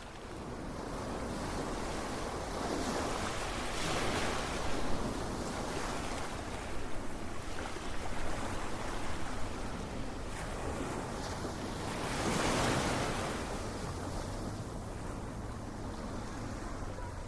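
Ocean surf: a continuous wash of waves that swells louder about four seconds in and again around twelve seconds.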